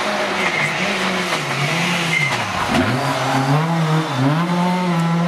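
Rally car engine braking into a hairpin and accelerating out. The revs fall to a low point about two and a half seconds in, then climb again, with a brief dip about four seconds in.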